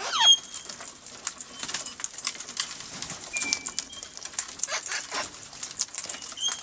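Wild parrots calling while being hand-fed: a loud sweeping squawk right at the start, then a few short clear whistles over a scatter of light clicks.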